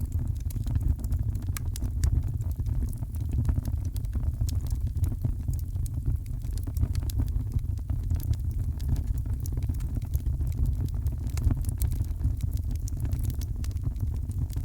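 Heavy rain with a wood fire crackling in a fireplace: a steady deep rumble, with many small sharp crackles scattered throughout.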